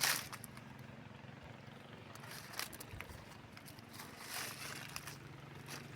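Footsteps on rough ground: scattered brief scuffing steps, the loudest right at the start, over a faint steady low hum.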